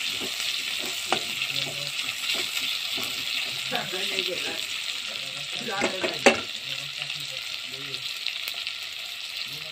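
Chopped tomatoes and onions sizzling in hot oil in a metal wok, stirred and scraped with a metal spatula. A sharp clink of the spatula against the pan, a little past six seconds in, is the loudest moment.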